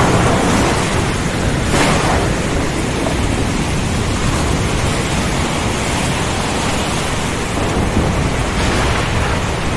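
Thunderstorm: heavy rain and wind making a dense, steady rush, with deep thunder rumbling underneath. A brief louder burst comes about two seconds in.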